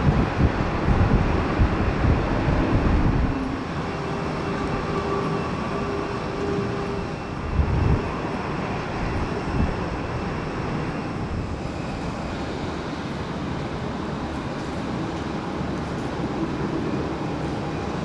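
Jet airliner engines running at low power, a steady rumble with a faint whine. Wind buffets the microphone in the first few seconds and again briefly near the middle.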